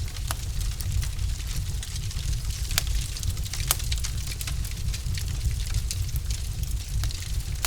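Log fire in a fireplace crackling, with irregular sharp pops and snaps over a steady low rumble of burning.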